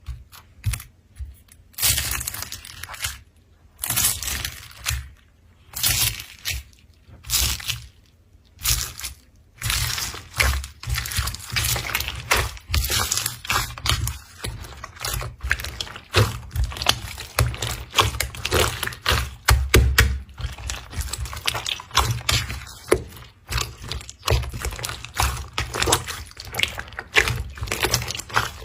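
Slime being squeezed and worked by hand, giving wet crackling and popping clicks. About one squeeze a second at first, then, from about ten seconds in, a dense, continuous run of crackles.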